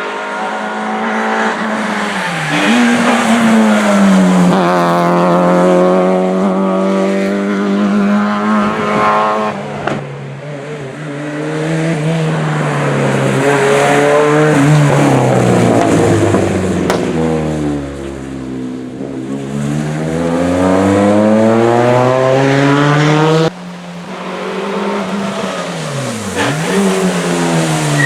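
Rally cars driven hard on a stage, engines revving up and down repeatedly through the gears as they pass, with some tyre squeal. The sound breaks off abruptly about two-thirds of the way through and picks up again with another car revving.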